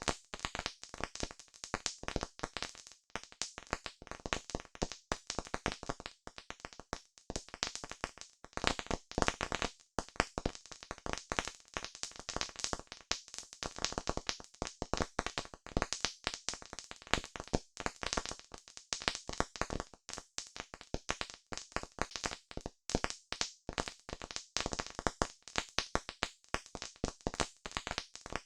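Campfire crackling: a dense, irregular run of sharp pops and snaps with no letup.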